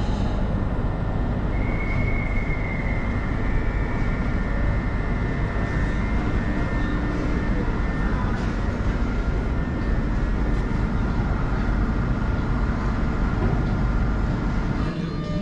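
A train running at an underground station platform: a steady low rumble that echoes in the enclosed space. A faint, thin high squeal sounds from about two to four seconds in.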